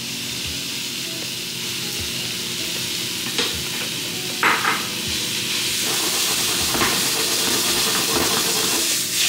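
Sliced beef and green onion sizzling in hot oil in a frying pan as they are stirred with chopsticks; the sizzle grows louder about halfway through, with a few light knocks.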